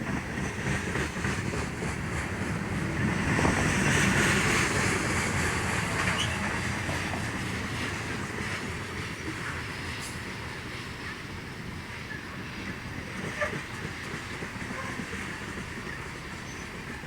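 Train rolling past on the rails, its wheels clattering over the track, loudest about four seconds in and then slowly fading.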